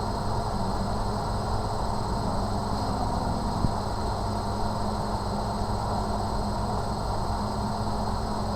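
Steady background rumble with a low hum, unchanging throughout, with no distinct events.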